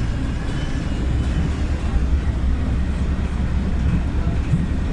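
PAZ 320414-04 Vector bus under way, heard from inside the cabin: a steady low rumble of its YaMZ-53423 natural-gas engine mixed with road noise.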